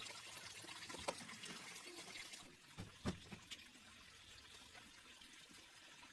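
Faint running water that stops about two and a half seconds in, followed by a few light knocks.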